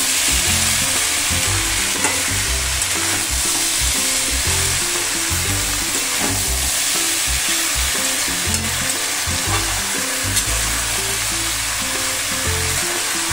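Julienned potatoes, radish and aubergine sizzling in hot oil in a metal kadai as they are stirred with a metal spatula, with a few light clicks of the spatula against the pan.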